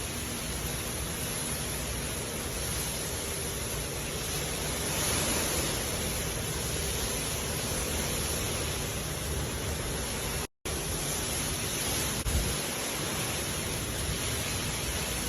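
Hard rain falling steadily: a dense, even hiss with no let-up, broken once by a split-second gap in the audio about ten seconds in.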